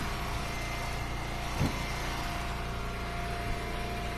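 Engine of a hydraulic log splitter running steadily, with one short knock about one and a half seconds in.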